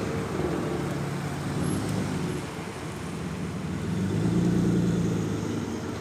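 Lowered cars rolling slowly past at low engine revs, a steady low engine hum: first a Toyota Estima minivan, then a Toyota Aristo sedan whose engine grows louder as it comes close and passes about four to five seconds in.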